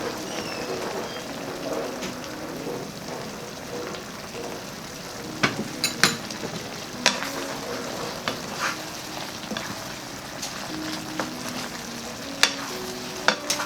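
Chicken pieces sizzling in thickening sweet and sour sauce in a pan, stirred with a utensil that clinks sharply against the pan a few times, mostly in the second half.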